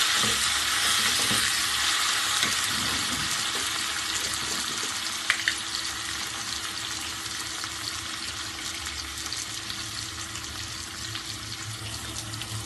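Chopped tomatoes and onions frying in oil in a pan: a steady hissing sizzle that slowly fades. A short click about five seconds in.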